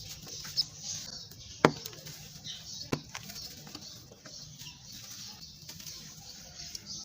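Crunchy crumbles of sand-cement being crushed and broken apart: a steady gritty crackle with three sharper snaps, the loudest a little under two seconds in.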